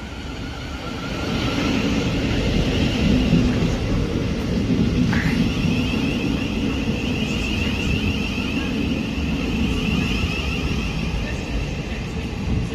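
Thameslink Class 700 electric train pulling into the platform: a steady rumble from the wheels with a high whine over it, and a short squeal about five seconds in.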